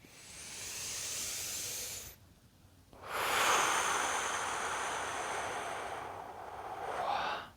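A man taking one deep, slow breath: an airy inhale of about two seconds, a short pause, then a longer, louder exhale that slowly fades out.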